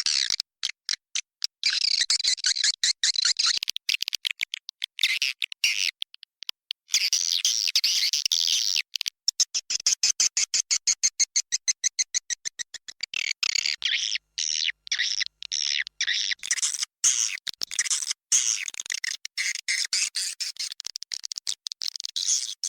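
Edible-nest swiftlets chittering in a dense flock: rapid high chirps and fast trains of clicks with brief pauses between bursts. A swiftlet lure recording of the 'inap' roosting call, played to draw swiftlets into nest houses.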